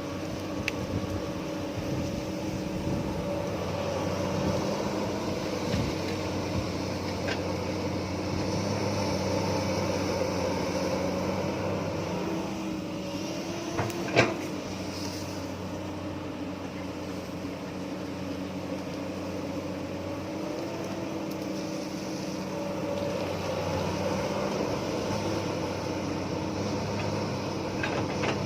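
Hydraulic excavator's diesel engine running steadily under load, its pitch rising and falling a little as it works. There is one sharp metallic knock about halfway through.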